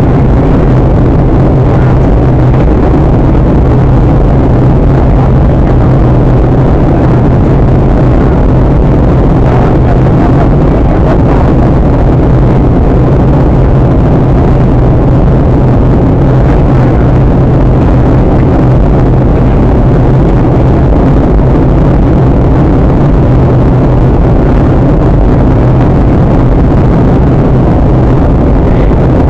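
Loud, steady cabin noise of a Boeing 737-800 in flight on approach: the CFM56 jet engines and the airflow together, with a constant low hum under it and no separate events.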